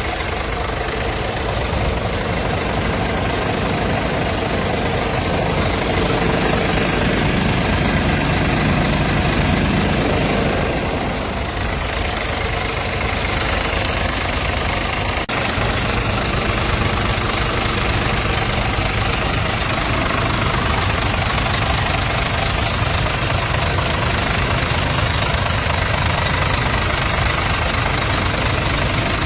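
Scania DC13 inline-six diesel engine of an S450 tractor unit idling steadily.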